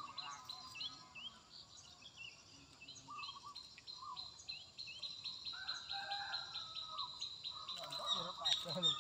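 Birds calling: repeated short rising chirps, turning into a fast, even run of about five notes a second in the second half, with louder, lower calls near the end.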